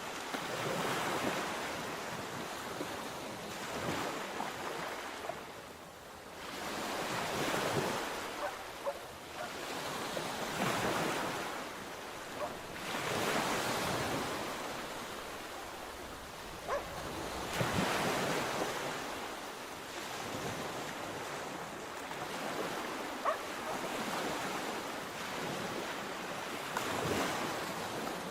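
Sea waves breaking on the shore in slow surges that swell and ebb every few seconds, with wind on the microphone.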